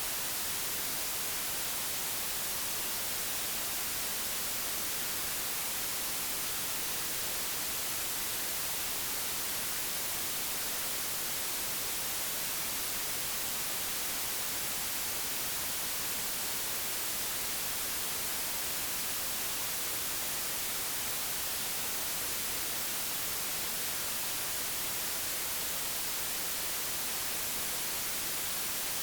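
Steady, unchanging white noise from a digital generator: an even hiss, strongest in the highs, with no other sounds.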